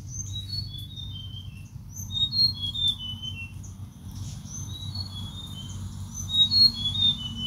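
A bird singing three phrases of quick chirps, each stepping down in pitch, over a steady low background rumble.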